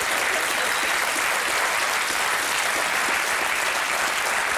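Studio audience applauding, a steady dense clapping.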